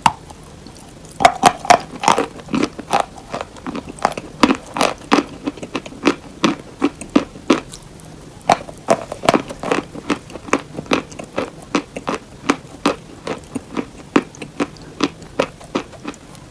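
Close-miked chewing of crunchy hard cheese: sharp, crisp crunches in quick succession, starting about a second in.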